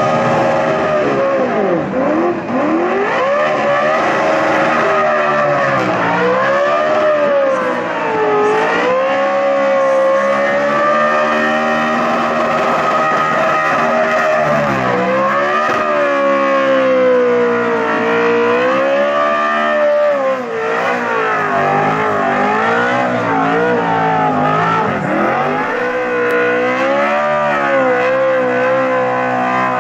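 High-revving NASCAR V8 engine held near the limiter during a burnout, its pitch rising and falling again and again as the throttle is worked, over the hiss of spinning tyres.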